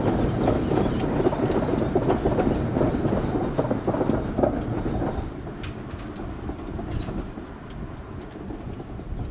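Steam-hauled train passing, its wheels rumbling and clattering loudly over the rails, then falling away about five seconds in to a quieter rumble with a few scattered clicks.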